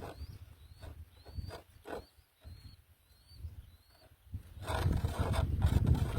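Faint, short, high bird peeps repeating about twice a second, with a few soft knocks, stopping about four seconds in; then a loud low rumbling and rustling close to the microphone.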